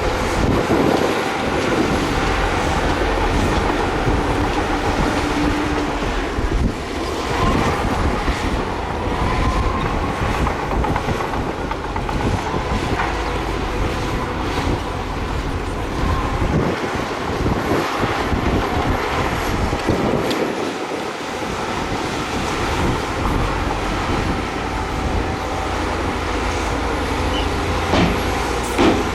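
Bulldozer working: its diesel engine runs steadily under load while its steel tracks clank and squeal.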